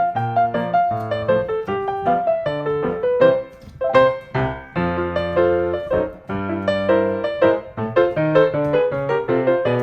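Background piano music: a melody of quick notes over sustained low chords.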